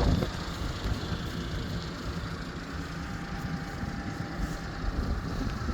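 Mitsubishi Minicab mini truck's 660cc three-cylinder engine idling steadily.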